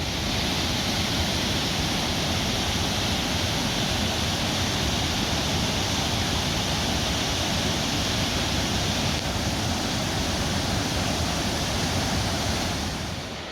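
Waterfall rushing in a steady roar of falling water that drops a little near the end.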